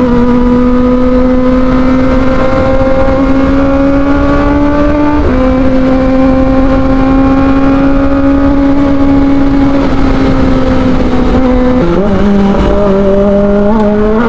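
Kawasaki ZX-25R's 250cc inline-four running loud through an Arrow Pro Race exhaust under way, its high note climbing slowly through each gear and dropping sharply twice, about five seconds in and near twelve seconds, as gears are changed.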